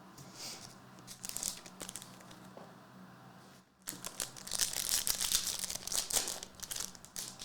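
Trading card pack wrapper crinkling and tearing as it is opened. There is lighter crinkling at first, then louder, dense crinkling from about four seconds in.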